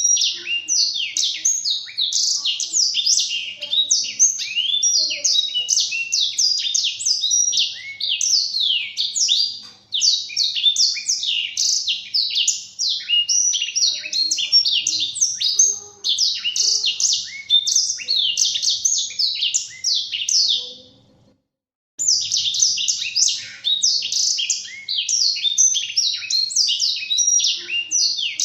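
Black-throated canary (blackthroat) singing a fast, unbroken song of rapid high chirps and sweeping trills. The song stops for about a second roughly three-quarters of the way through, then picks up again.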